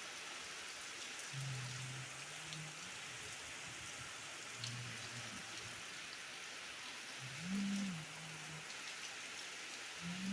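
Heavy rain falling steadily, with a steady hiss of drops and a few sharper drop ticks. A low call repeats every few seconds underneath it, loudest about two-thirds of the way through, where it rises and falls in pitch.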